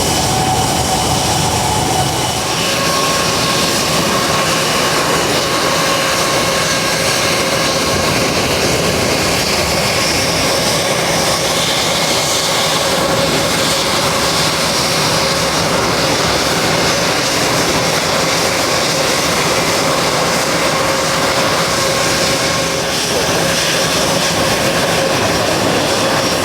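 Jet airliner engines running loud and steady, a rushing noise with a few high whining tones held over it; the tones shift slightly about two seconds in.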